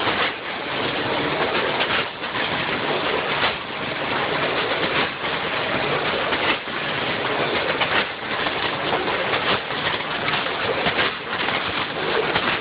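Vertical form-fill-seal snack packaging machine with a multihead weigher running, a dense, steady noise that dips briefly about every second and a half, one dip per bagging cycle.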